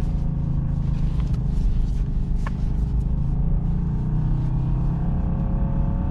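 Subaru WRX's turbocharged flat-four engine running under load at a steady pitch while the car is stuck in snow and being driven to pull free.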